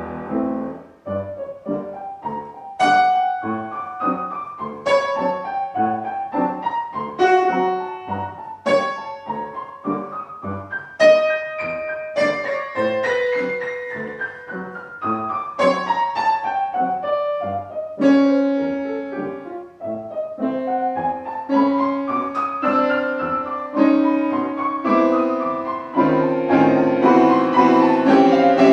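Piano playing classical music, with runs of struck notes climbing and falling.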